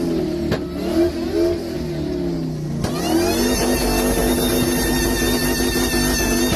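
Supercharged Ford F-150 Harley-Davidson Edition's V8 engine being revved. The pitch wavers up and down at first, then climbs about three seconds in and holds at higher revs with a high supercharger whine.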